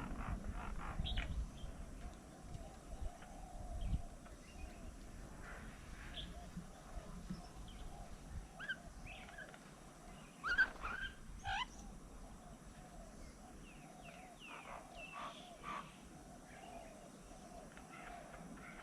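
Birds chirping and calling in short, scattered notes, the loudest a sharp call about ten seconds in. A low rumble underlies the first few seconds.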